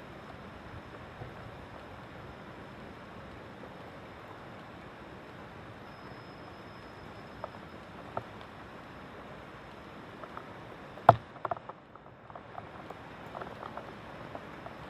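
Steady hiss of heavy rain during a thunderstorm, with one sharp crack about eleven seconds in and a few fainter ticks after it.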